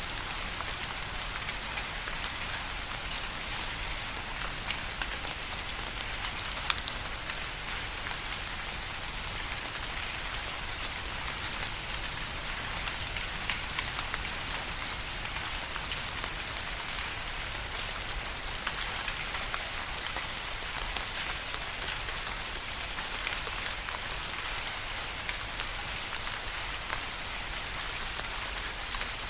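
Steady rain falling, a dense even hiss of many small drops pattering on a surface, with scattered sharper drop ticks.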